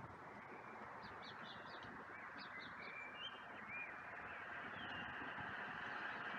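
Small birds chirping and tweeting faintly, a cluster of quick high chirps followed by a few short whistled glides, over a steady background hiss of outdoor noise.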